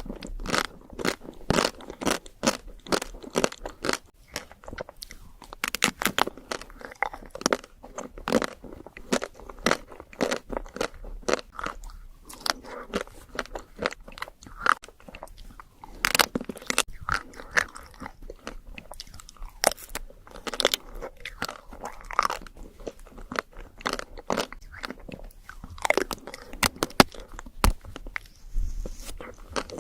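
Close-miked crunching and chewing of chocolate desserts: a dense, irregular run of sharp crunchy bites and chews.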